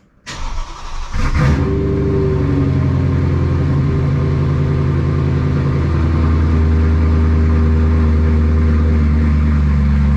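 BMW E92 M3's V8 engine through a loud exhaust: it comes in with a brief flare, then settles into a steady deep note whose pitch shifts slightly about six seconds in.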